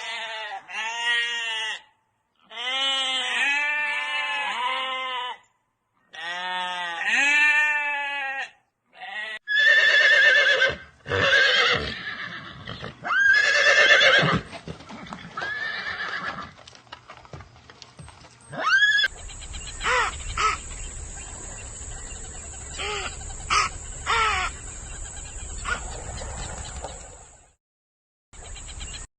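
Farm animal calls in short separate clips: three long wavering calls in the first eight seconds, then shorter, rougher calls, and later a steady high whine with a few short, sharp calls over it.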